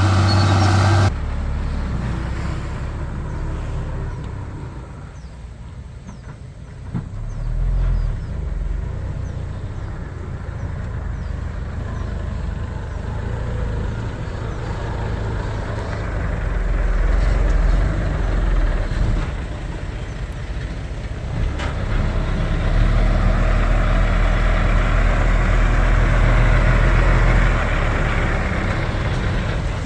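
Heavy diesel engines of earthmoving machinery running under varying load, rising and falling in level, with a louder, deeper stretch in the second half. A louder engine sound cuts off abruptly about a second in.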